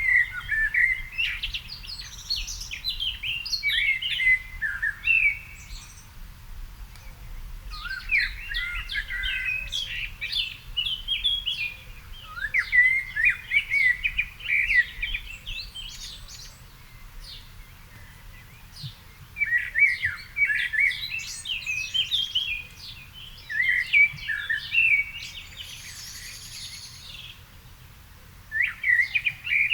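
Songbirds singing in an evening garden: varied, warbling phrases a few seconds long with short pauses between them, and a fainter, higher song joining near the end. Faint low wind rumble underneath.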